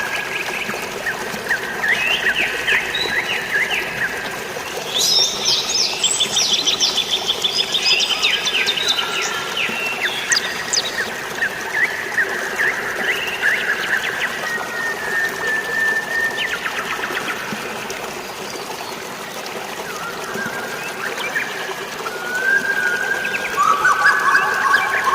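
Several birds chirping and calling over a steady rush of falling water. A burst of fast, rattling chirp trills comes about five to eleven seconds in, and sustained whistled notes follow later and near the end.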